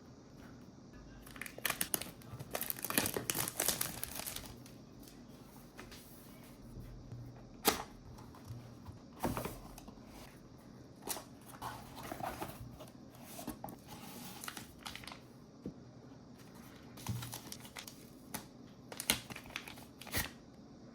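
Packaging of an action camera's box being handled and opened: a few seconds of tearing and crinkling about two seconds in, then scattered clicks and taps as box parts and contents are moved.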